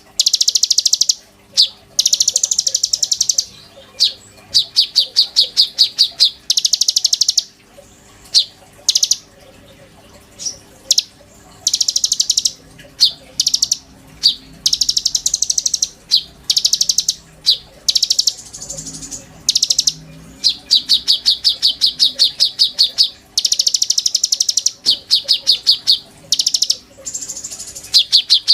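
A konin songbird singing in full voice: phrase after phrase of fast, high repeated notes, each burst lasting about one to two seconds with short pauses between, interspersed with a few single chips.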